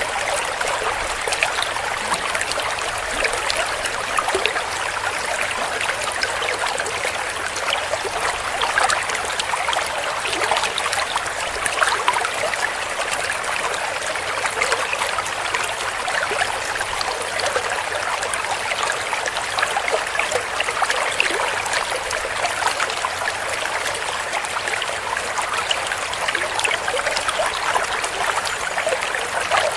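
Small clear stream running over rocks, a steady gurgling and splashing of shallow falling water with many small bubbling flecks.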